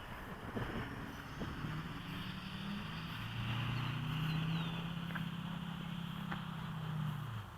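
A steady low mechanical hum that starts about a second and a half in and cuts off suddenly near the end.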